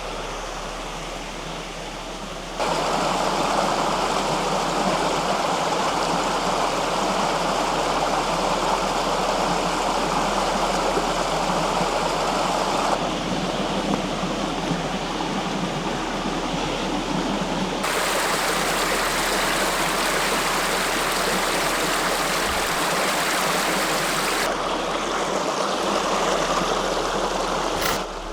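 Creek water rushing over rocks, a steady noise that jumps abruptly in loudness and tone several times, louder from about three seconds in.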